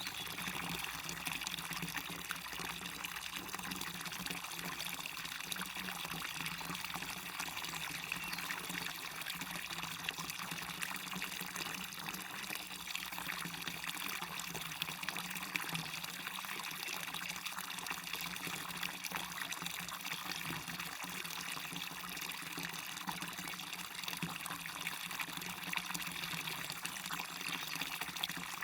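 A small waterfall splashing steadily into a stream: a constant rush of falling water with fine trickling and splashing, mostly bright and high with little deep rumble.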